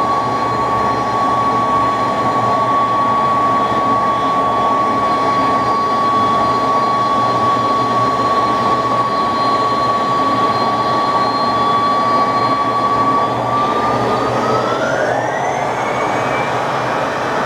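McDonnell Douglas DC-10's jet engines running during takeoff: a loud, steady roar with a high whine on top, which rises in pitch about fourteen seconds in.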